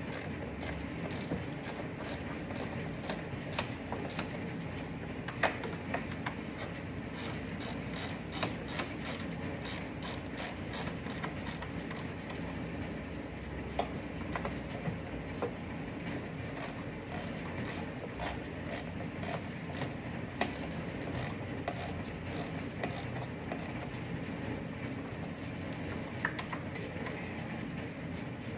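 Hand ratchet clicking in quick runs with short pauses between, as the small bolts holding the fuel pump assembly on a 2002 Corvette's tank are run down snug in a star pattern.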